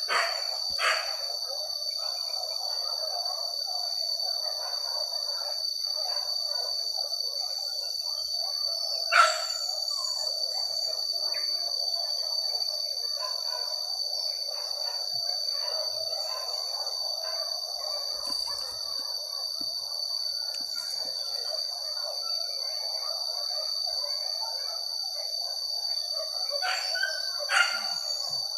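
Forest ambience: a steady high-pitched insect drone under a dense chatter of chirping calls, with a sharp louder sound about nine seconds in and another near the end.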